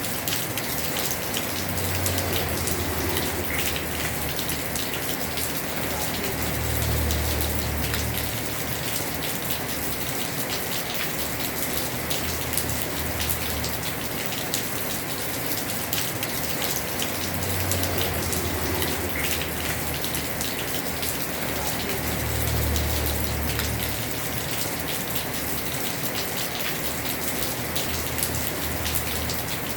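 Heavy rain falling on a house roof: a steady hiss full of close drop taps. A low rumble swells and fades several times.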